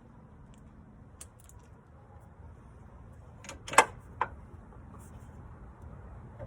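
Metal tools or parts clinking: a few faint clicks, then one sharp clink a little past halfway and a smaller one just after it.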